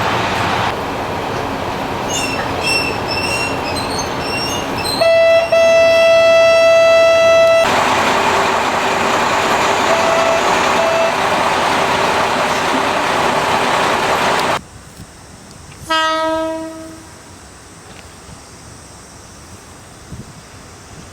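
Kokutetsu-era diesel railcar running, sounding a long, loud horn blast about five seconds in. After a sudden drop in level, another shorter horn blast sounds near the middle.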